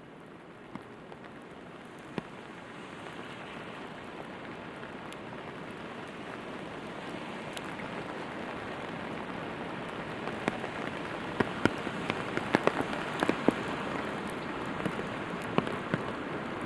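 Steady rain falling, growing louder over the first ten seconds or so, with individual drops landing as sharp ticks that come thickest in the second half.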